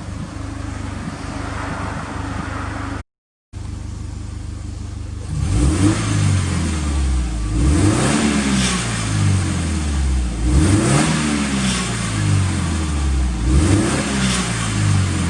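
Subaru Impreza WRX STI (GRB) turbocharged flat-four engine with an HKS aftermarket muffler, idling steadily. About five seconds in it is revved several times in a row, each rev rising and falling back.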